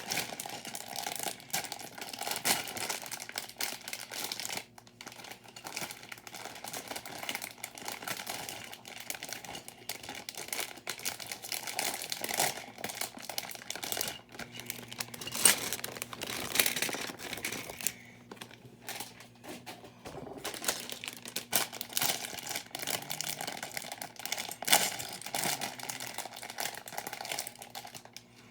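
Plastic parts bags of a building-brick set being torn open and handled, with continual irregular crinkling and a few sharper louder snaps.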